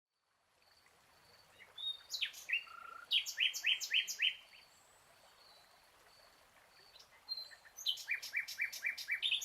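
Songbird singing: two runs of quick, repeated down-slurred notes, the first about two seconds in and the second near the end, with fainter short high notes in between.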